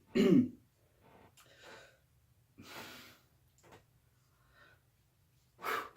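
A man breathing heavily: a loud voiced sigh right at the start, quieter breaths in the middle, and a sharp intake of breath near the end, the breathing of someone shaken by a scare.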